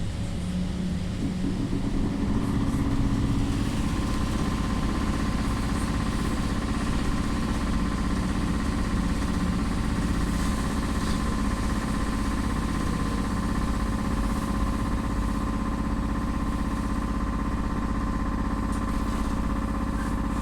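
A BKM 333 trolleybus in motion, heard from inside the passenger cabin: low rumble of the running gear and road, with the steady whine of the electric traction drive coming in about two to four seconds in and then holding a level pitch.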